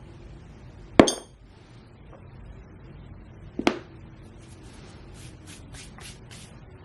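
Metal pieces being handled: a sharp, ringing metallic clink about a second in, a duller knock a few seconds later, then a run of about six light clicks at roughly three a second.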